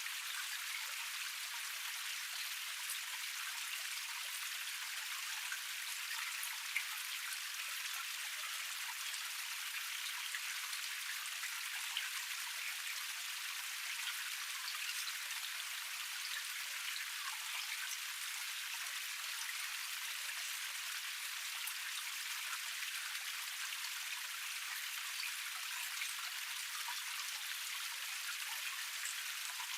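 Water of a small waterfall cascade flowing and splashing over rocks: a steady, thin, hissing spatter of many small splashes, with no low rumble.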